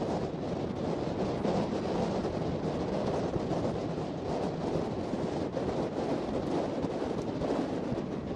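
Steady rush of wind buffeting the microphone over the rumble of a passenger train running, heard from the side of the moving train.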